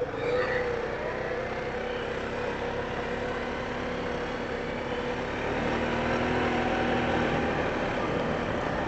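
Four-wheeler (ATV) engine running steadily while riding, after a brief rise in revs at the start and a little louder for a couple of seconds past the middle.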